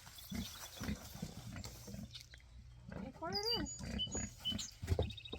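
Pigs grunting in short, repeated grunts, excited as they wait to be fed.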